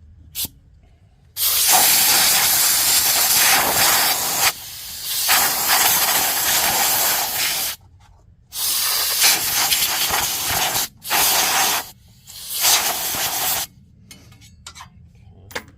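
Compressed-air blow gun hissing in five loud bursts of one to three seconds each, with short pauses between them.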